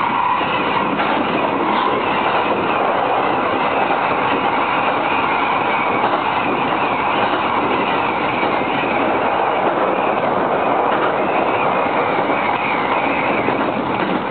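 Running noise of a JR East Narita Line commuter train, heard inside the passenger car: a steady rumble of the wheels on the rails. A higher hum fades out in the first second.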